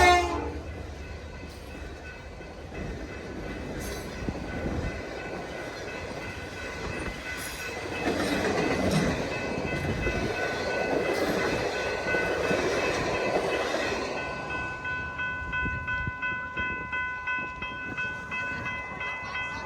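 A passing train's cars and wheels rumbling on the rails, loudest a little past the middle. In the last few seconds a steady ringing tone pulses about twice a second.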